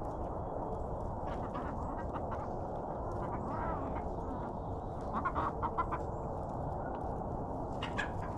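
Backyard hens clucking and calling in short scattered notes, with a quick run of calls about five seconds in, over a steady low background noise.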